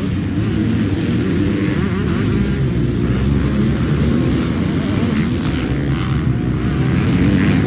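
Two-stroke dirt bike engine running on a motocross track, a steady drone whose pitch wavers up and down as the throttle changes.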